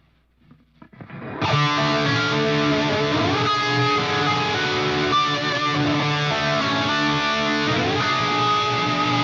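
Electric guitar played through a Line 6 Helix ambient crunch preset. After about a second of near silence and a few quiet picked notes, a distorted chord rings out loud and sustained, its pitch sliding up twice.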